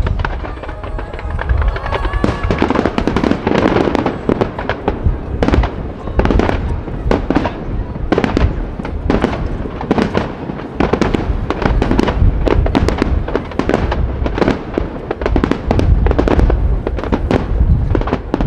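Aerial fireworks shells bursting in rapid, continuous succession, a dense barrage of many sharp bangs over a low rumble.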